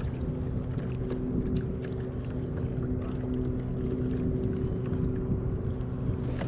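A steady low mechanical drone with a few even overtones, over a rough noise bed of water and wind.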